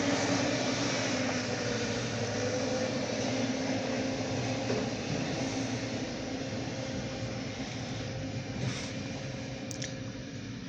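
A short freight train's diesel locomotive running steadily as the train moves along, with a faint steady tone in its hum; the sound slowly fades toward the end.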